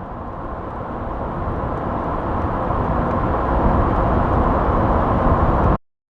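Sound effect of an approaching car: engine and road noise swell steadily louder, then cut off abruptly near the end.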